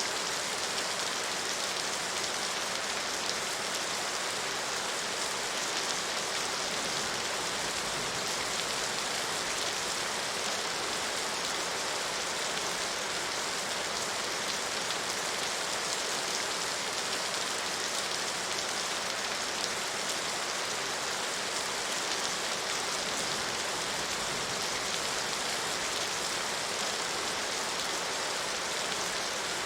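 Steady rain falling, an even hiss with fine scattered patter of drops hitting a surface.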